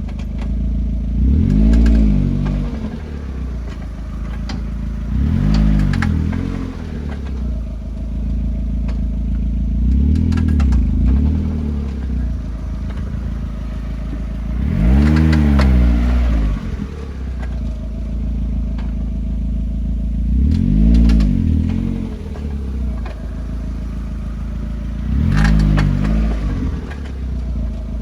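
Mazda Miata's four-cylinder engine idling and being revved briefly, then falling back, six times at intervals of about four to five seconds. Clicks come with each rev; this is the noise the owner finds weird and cannot place.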